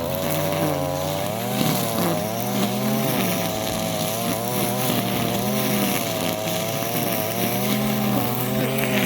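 Car engine running while driving, its pitch rising and falling gently with the revs, over steady road noise.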